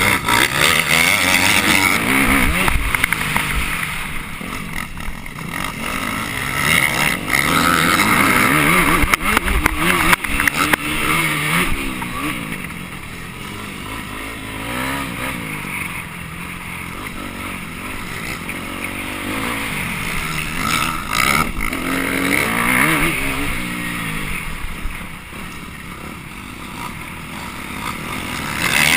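Off-road motorcycle engine heard from an onboard camera, revving up and dropping back over and over as the rider accelerates, shifts and backs off around a dirt track, with the rush of wind and track noise on the microphone.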